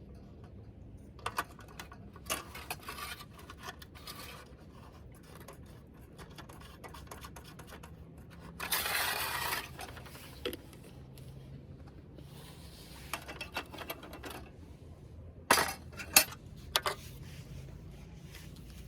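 Scattered clinks and knocks of small hard objects being handled, with a rustling burst about nine seconds in and a few louder knocks near the end.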